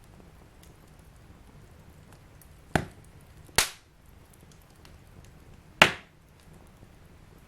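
Wood fire burning in a fireplace: faint steady crackling, with three loud, sharp pops from the burning logs, the first two close together and the third about two seconds later.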